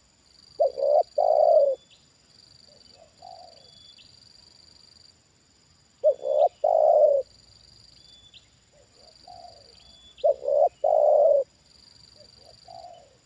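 Spotted doves cooing: three loud coo phrases about four to five seconds apart, each of two or three notes, with softer coos between them.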